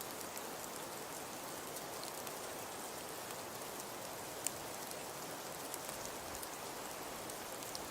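Crackling fireplace: a steady hiss with many small scattered pops and crackles, and one louder pop about four and a half seconds in.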